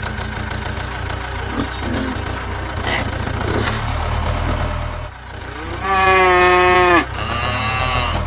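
Steady low engine hum, with a cow mooing loudly about six seconds in: one drawn-out moo that rises and then holds before stopping abruptly, then a shorter moo near the end.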